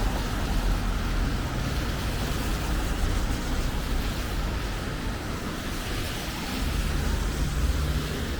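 Steady hiss and rumble of road traffic, with tyres running on wet pavement.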